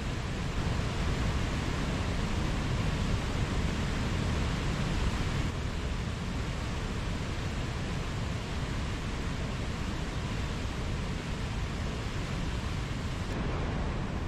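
Mountain stream flowing: a steady, even rush of water. Its hiss dulls slightly about five seconds in.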